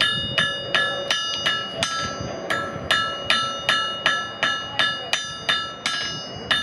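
Blacksmith's hammer striking metal on an anvil in a steady rhythm of about three blows a second, each blow ringing on briefly.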